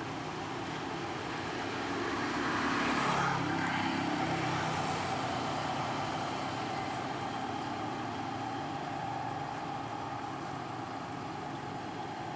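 Steady road traffic noise, swelling as a vehicle goes by about three seconds in, then settling back.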